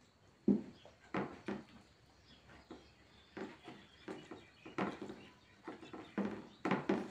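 Close-up mouth sounds of people eating a rice, dal and chicken curry meal: chewing and lip-smacking in irregular bursts, several loud smacks among quieter ones.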